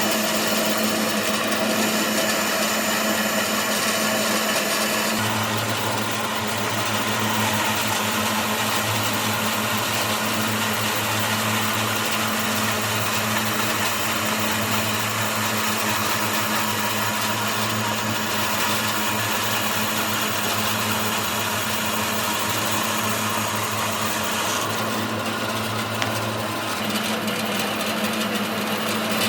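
An electric woodworking machine running steadily with a mechanical hum and broad noise. The hum deepens about five seconds in.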